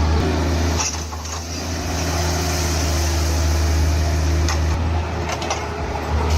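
Heavy machine's engine running steadily with a loud low hum. A few sharp clicks or knocks come about a second in and again several times near the end.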